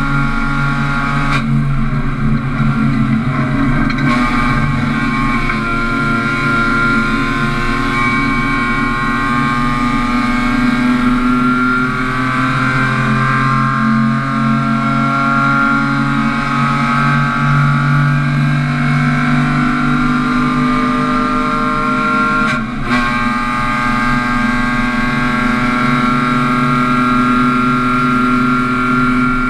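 Renault Twingo race car's engine heard from inside its stripped, roll-caged cabin, running hard under full load with its pitch slowly climbing as it accelerates. It dips briefly for a gear change twice, once near the start and again about two-thirds of the way through.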